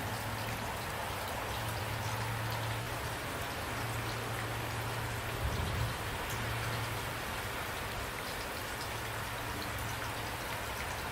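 Steady rain falling, with a brief low thump about halfway through.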